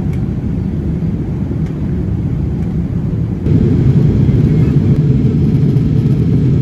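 Steady low rumble of a Boeing 787-9's engines and airflow heard inside the economy cabin, stepping up louder about three and a half seconds in.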